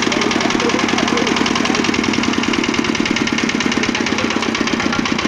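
Small generator engine running steadily after being started, with a fast, even firing beat.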